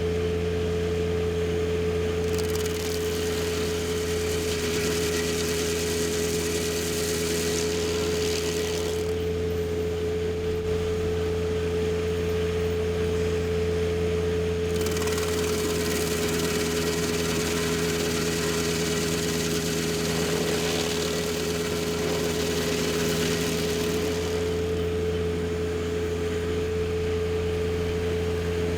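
Tractor engine running at a constant speed with a steady, unchanging hum and no load changes.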